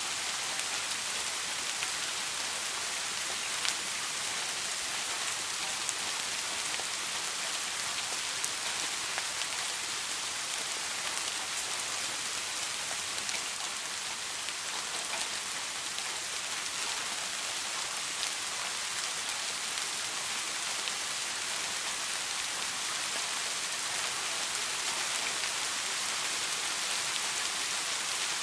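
Steady soft rain falling, a constant hiss with scattered individual drops ticking. No thunder is heard.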